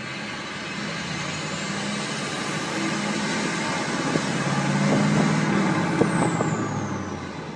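A heavy vehicle's engine passing close by, growing louder to a peak about five seconds in and then fading, with a few sharp clicks near the loudest point.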